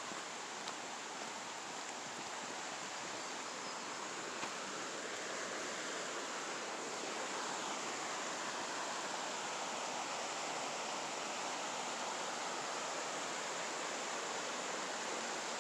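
Steady rushing of flowing water, swelling slightly about halfway through.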